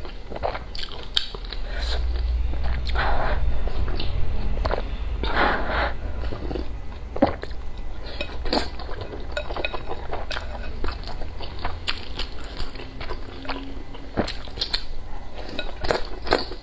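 Close-miked eating sounds: irregular crunchy bites and chewing.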